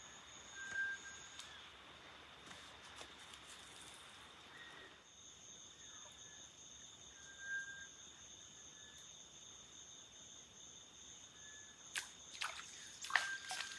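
Night insect chorus of crickets, a steady high-pitched trill held on two pitches. Two short whistled calls cut through, about a second in and near the middle, and a few sharp clicks and knocks come near the end.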